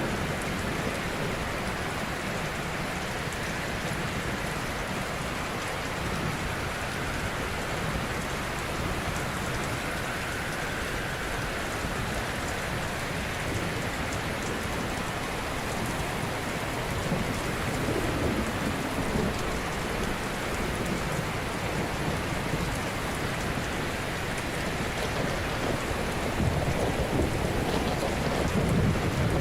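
Ocean surf: a steady rush of waves washing ashore, with a deeper swell building near the end.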